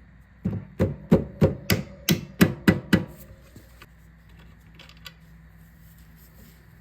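About nine hammer blows in quick succession, roughly three a second, stopping about three seconds in.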